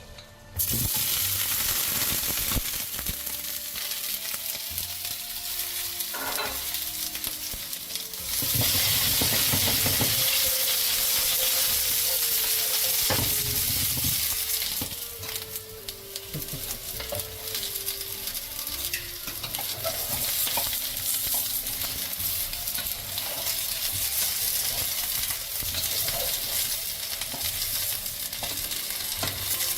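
Food sizzling and frying on a hot cooking surface. It starts suddenly about half a second in and is loudest from about 8 to 14 seconds in, with scattered light clicks of utensils.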